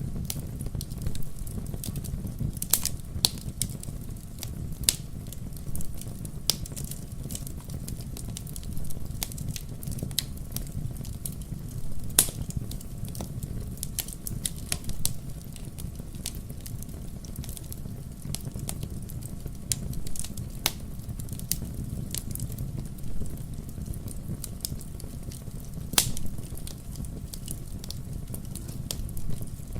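Wood fire burning in a fireplace: a steady low rumble of flames with irregular sharp crackles and pops, a few louder snaps along the way.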